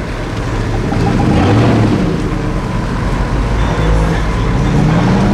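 A car engine revving, its pitch rising and falling a couple of times over a steady rushing noise.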